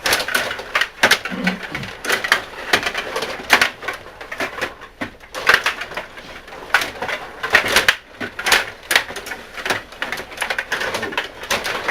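Stiga rod hockey game in play: quick, irregular clacking and rattling of the metal rods, plastic players and puck knocking against each other and the board.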